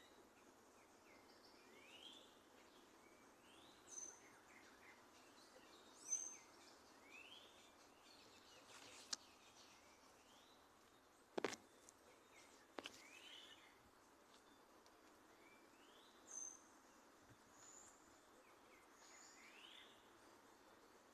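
Small birds chirping faintly: short rising calls every second or two, some higher, over a steady background hiss. A couple of sharp clicks sound near the middle, one of them among the loudest sounds.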